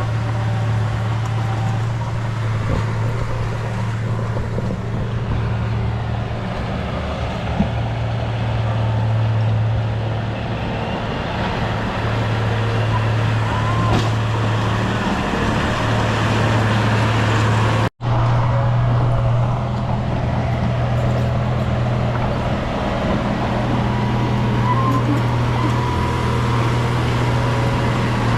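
Heavy earthmoving machine's diesel engine running steadily under load, a constant low drone, with an instant's dropout about two-thirds of the way through.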